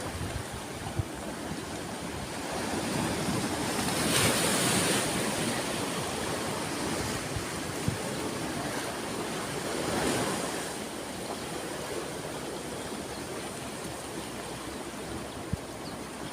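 Sea waves breaking and washing ashore: a steady rush of surf that swells louder about four seconds in and again about ten seconds in. A few faint short clicks are scattered through it.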